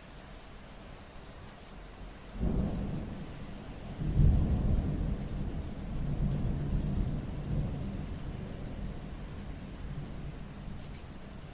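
Steady rain with a roll of thunder: a low rumble breaks in about two seconds in, swells to its loudest about four seconds in, then slowly rolls away.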